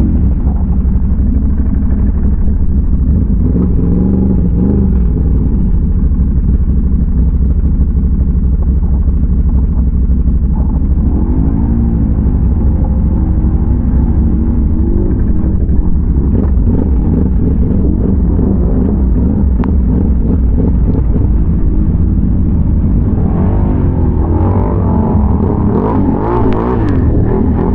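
Can-Am Renegade ATV's big-bore V-twin engine running while riding, its pitch rising and falling with the throttle. About five seconds before the end, a rougher, hissier noise joins it.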